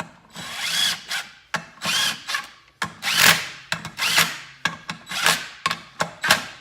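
Cordless power driver running bolts down in a series of short bursts, the motor whining up and down with each pull of the trigger, as the clutch spring bolts are tightened against the pressure plate.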